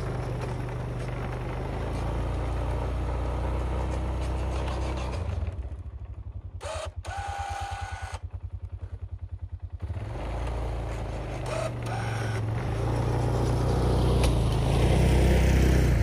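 Quad (ATV) engine running, dropping back to a quieter idle with an even pulsing for a few seconds near the middle, then picking up again and growing louder toward the end.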